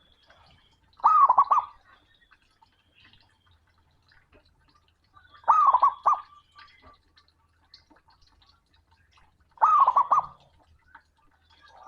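Male zebra dove (perkutut) singing its short cooing song three times, about every four seconds: a sliding note followed by a few quick notes. It is a male's call to a rival.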